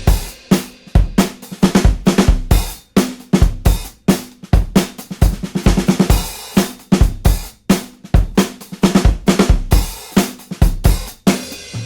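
Background rock music at a drum break: a drum kit alone, with kick, snare and cymbal hits in quick succession and the guitars dropped out.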